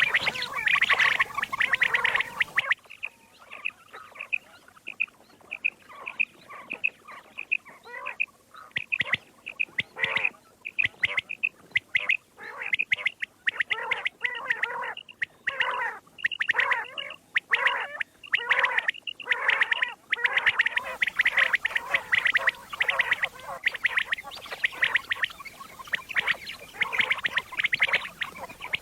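Common quail calling over and over in quick, short repeated notes, played as a hunting lure. The calls come in dense runs, thin out after a few seconds with quieter gaps, then grow dense and loud again in the last third.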